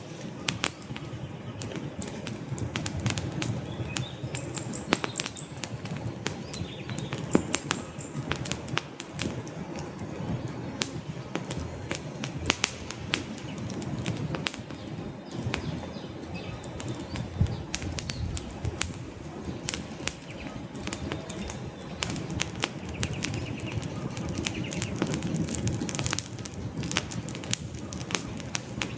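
Wood fire crackling in a fireplace: frequent sharp pops and snaps from the burning logs over the steady low sound of the flames.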